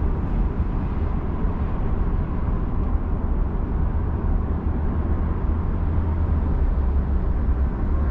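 Steady low rumble of a Genesis G80 3.5 turbo sedan at highway speed, heard from inside its cabin: road and drivetrain noise that holds even throughout, with no sudden events.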